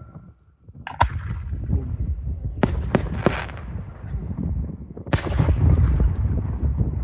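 Fireworks display: after a brief lull, shells burst with sharp bangs about a second in and three times in quick succession around the three-second mark. A bigger burst about five seconds in is followed by a continuous low rumble of further explosions.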